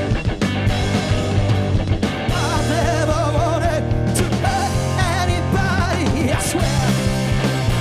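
Live rock band playing, with sustained bass notes and steady drums. From about two seconds in, a lead melody wavers in heavy vibrato above them.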